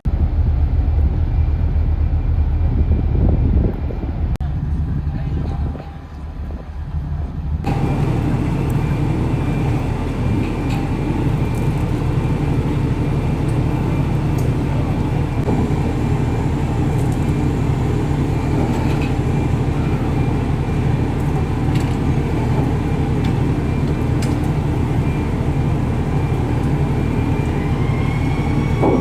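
High-speed passenger boat's engines running with a steady low drone. The sound changes abruptly about eight seconds in, and a faint rising whine comes in near the end.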